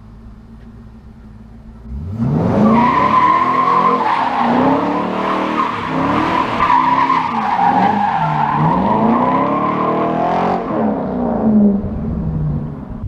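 C5 Corvette Z06's LS6 V8 idling, then about two seconds in a burnout on cheap Lionhart tires: the tires squeal steadily for about eight seconds while the engine revs rise and fall over and over, then it eases back toward idle.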